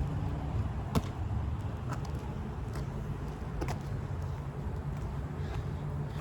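Wind rumbling on the microphone, with a sharp knock about a second in and a few fainter clicks later.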